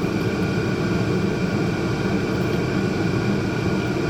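Steady low mechanical hum and rumble, even in level throughout, with a few faint steady tones above it.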